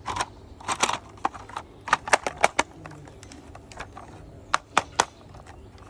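Plastic toy school bus parts being handled and knocked together: a scatter of sharp clicks and taps, with a quick cluster about two seconds in and three more near the end.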